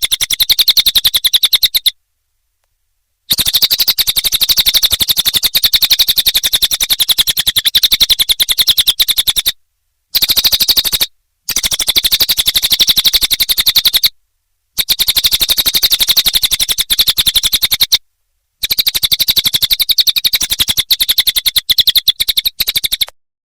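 Cililin bird song from a song-tutor recording: long runs of very fast, high, repeated chirps, in phrases a few seconds long. Each phrase stops abruptly into a short stretch of total silence, where the recording has been edited.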